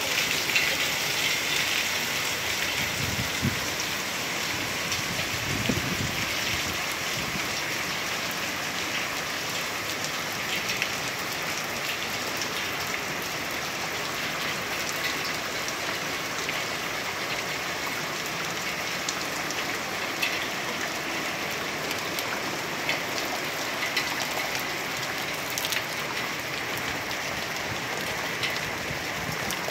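Steady rain falling on a street and walkway, a constant hiss with many small drop ticks.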